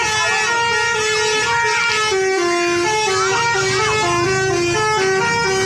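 A bus's multi-tone 'telolet' horn playing a tune, with loud held notes stepping up and down between a few pitches.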